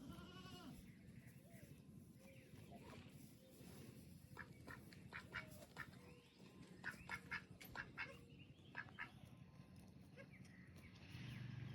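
A goat bleats once with a wavering pitch, then ducks give a run of short, faint quacks.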